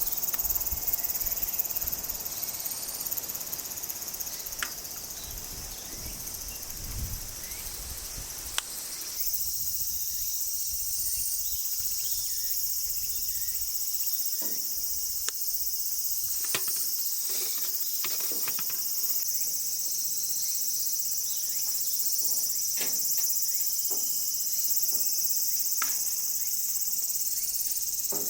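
Steady, high-pitched chorus of crickets or other insects, with a few light clicks or taps scattered through it. The lower background drops away about nine seconds in.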